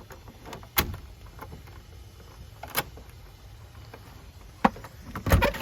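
Door being unlocked and opened: a few separate sharp clicks and knocks, then a cluster of louder knocks and a low thud near the end.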